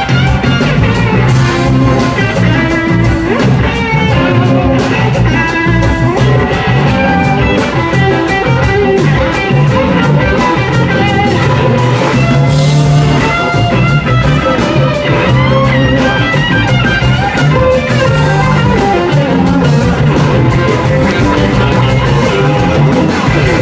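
Rock or blues band playing: electric guitar over bass and a drum kit, loud and continuous.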